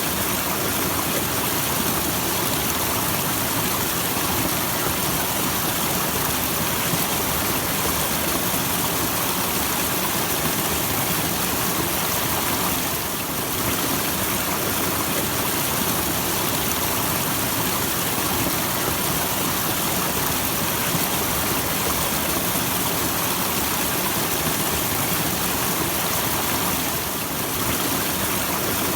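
Small natural waterfall: a steady rush of falling water.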